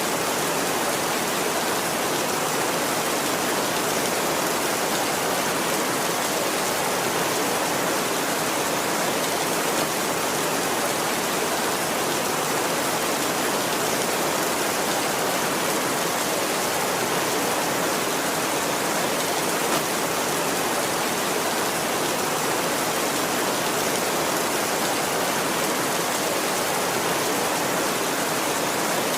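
Steady heavy rain falling: an even, unbroken hiss with no thunder.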